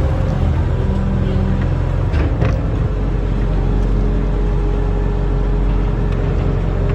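Barge-mounted excavator's diesel engine running steadily under load, with a couple of short clanks a little over two seconds in.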